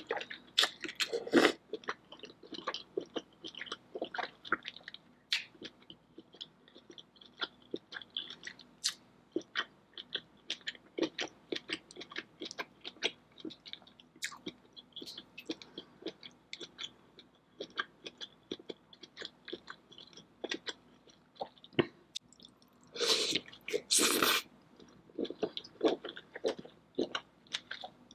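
Close-miked chewing of saucy seafood-boil shellfish meat: wet mouth smacks and clicks, several a second. A louder noisy burst lasting about a second and a half comes near the end.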